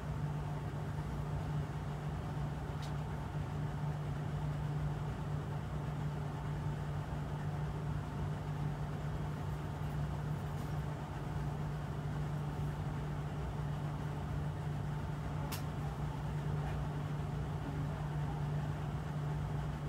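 Steady running noise inside the passenger cabin of a Kintetsu 22000 series (ACE) limited-express electric train: an even low hum over rumble and hiss, with a couple of faint clicks.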